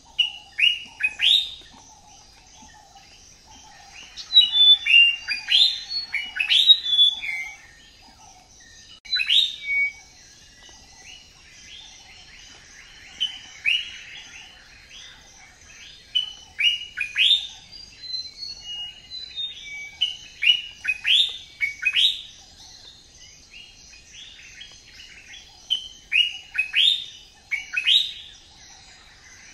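Birds in aviaries chirping: quick, sharp downward-sweeping calls in bursts, several overlapping at times, over a steady high buzz.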